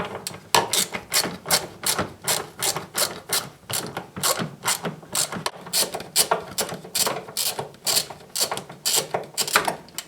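Socket ratchet wrench on a 10 mm bolt, clicking steadily at about four clicks a second as the bolt is undone.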